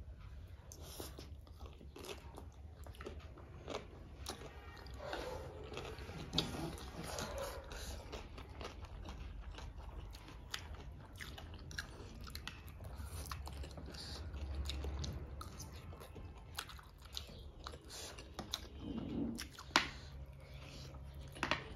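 Close-miked chewing and biting of noodles and fried food, with scattered sharp clicks.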